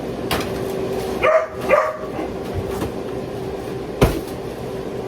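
Pet dog barking twice in quick succession about a second in, then a sharp knock near the end, over a steady low hum.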